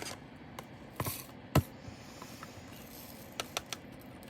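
Handling of small plastic drill bags and containers while kitting diamond-painting drills: scattered light clicks and a short rustle, with one sharp knock about one and a half seconds in and a quick run of three clicks near the end.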